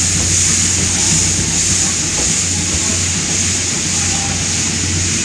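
Passenger coaches of a departing steam-hauled train rolling slowly along a station platform: a steady low hum under an even high hiss.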